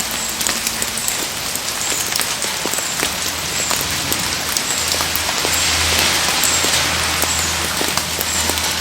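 Heavy rain falling, a dense steady hiss dotted with many sharp drop ticks, swelling slightly around the middle. A low steady hum comes in about three seconds in.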